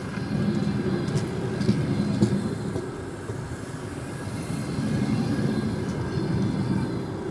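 Passenger coaches of a departing train rolling past, their wheels rumbling on the rails, the rumble swelling and easing as the cars go by, with a few sharp clacks about one to two seconds in.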